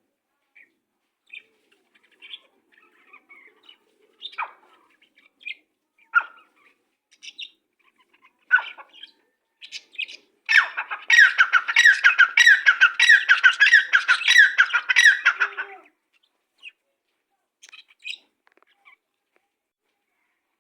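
Birds chirping in scattered short calls, then about halfway through a loud, fast run of repeated falling notes that lasts about five seconds before it stops and a few single chirps follow.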